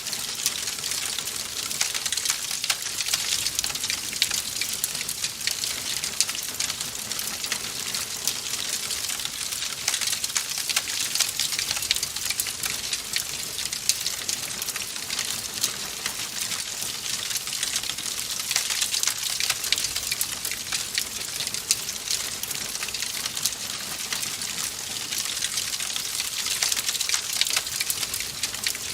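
Wood fire in a fireplace, burning steadily with a dense, continuous crackle of small sharp pops.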